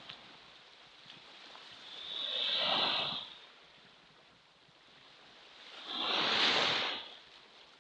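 Ocean waves breaking and washing in, two swells of surf noise that rise and fade about four seconds apart, with a quieter wash between them.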